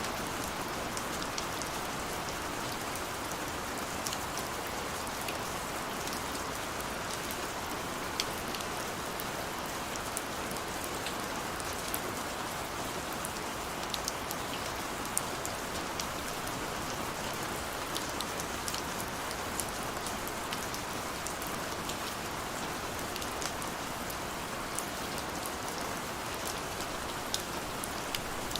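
Steady rain falling, an even hiss with scattered sharp drips and drop ticks throughout.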